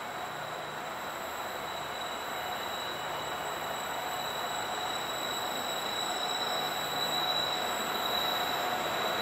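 Freight train approaching out of sight, its noise growing steadily louder, with a steady high-pitched squeal from the wheels on the rails.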